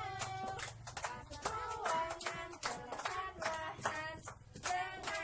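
Young children singing a song together while clapping their hands in a steady rhythm, about three claps a second.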